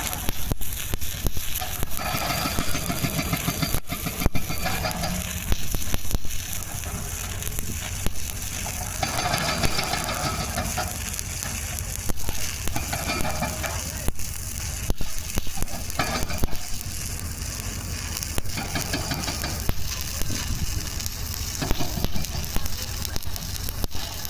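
Electric arc welding on pipe: the arc's steady frying crackle, running without a break.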